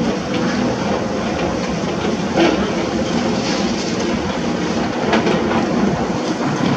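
Heavy construction machinery at work: a steady diesel engine drone with scattered clanks and knocks, the sharpest about two and a half seconds in.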